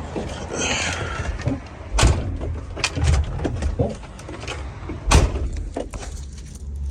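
Truck cab door and handholds being worked while climbing into a tractor-trailer: two heavy thumps about two and five seconds in, among smaller clicks and knocks, over a low steady rumble.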